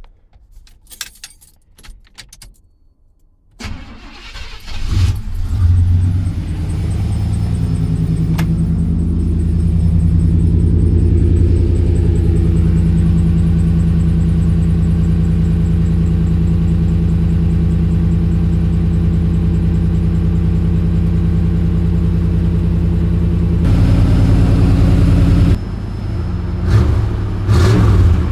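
Cold start of a 1990 Chevy K1500 pickup's engine breathing through a Flowmaster FX muffler and high-flow cat: a few faint clicks, then the engine cranks, catches about five seconds in and settles into a steady cold idle. Near the end the note drops and turns uneven with a couple of light throttle blips.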